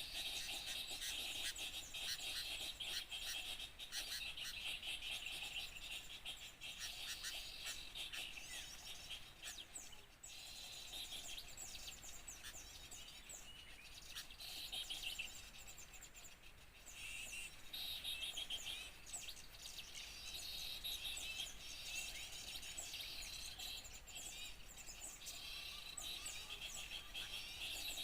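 Many small songbirds chirping and trilling at once in a dense, busy chorus of high calls: a noisy bird-luring recording meant to draw small birds in.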